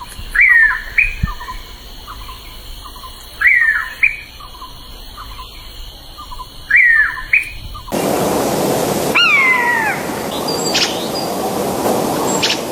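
Bird calling: a short phrase of falling chirps repeated three times, about every three seconds. About eight seconds in, the sound changes abruptly to a steady noise with a single drawn-out falling call and a few brief high notes over it.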